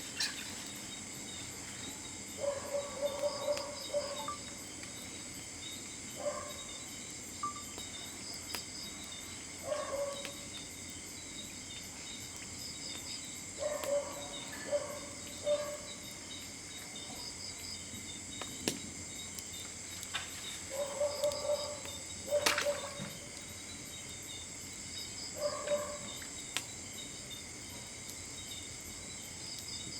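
Crickets and other night insects chirring steadily. A short, lower-pitched animal call comes every three to four seconds, and there are a couple of sharp clicks, the louder one about two-thirds of the way through.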